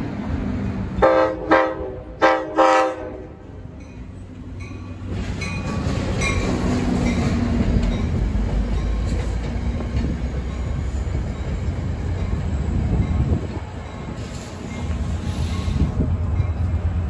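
NJ Transit commuter train sounding its horn in four short blasts about a second in, then rolling past the platform with a steady rumble and clatter of wheels on rail.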